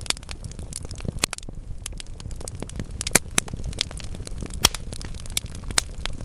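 Burning logs crackling in a fireplace: a steady low rumble of the fire under dense, irregular snaps and pops, with a few sharper, louder pops scattered through.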